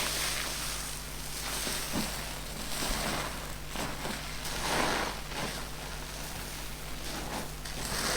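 Car-wash sponges being squeezed and released by hand: a soft hissing squish that swells and fades several times, about a second apart, loudest about five seconds in.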